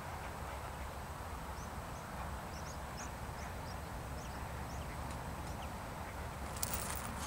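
Steady outdoor background with a low rumble, and faint, short high chirps of small birds repeating for a few seconds. A brief rustle comes near the end.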